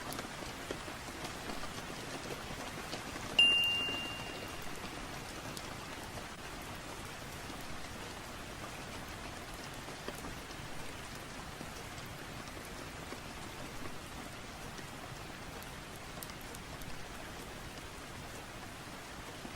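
Steady rain falling. About three seconds in, one sharp clink rings out at a single pitch and fades over about a second and a half.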